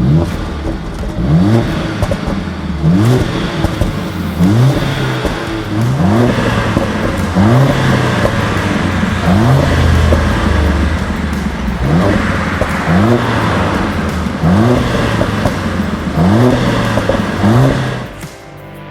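Performance car engine revved hard through its exhaust in about a dozen short blips, one every second and a half or so, each a quick rise in pitch that drops back. The blips stop about a second before the end.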